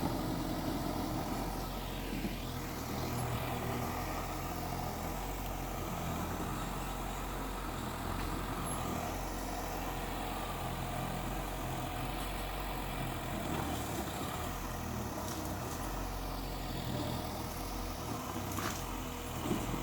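Heavy earthmoving machinery's diesel engine running steadily, with a brief knock just before the end.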